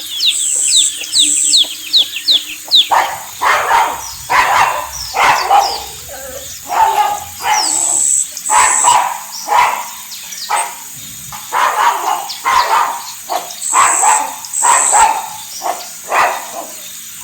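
Chicks peeping rapidly for the first few seconds, then a pug barking repeatedly, about one bark a second.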